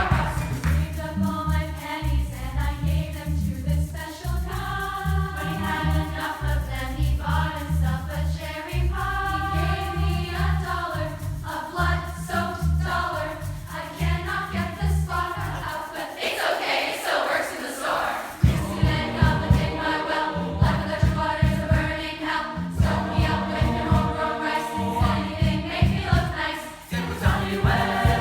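Youth choir singing an upbeat arrangement over a rhythmic low accompaniment. The low accompaniment drops out for about two seconds past the middle while the voices carry on, then comes back.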